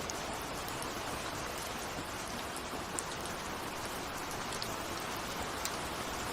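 Steady rain falling, a dense hiss with a few separate drops ticking sharply, about three seconds in and again near the end.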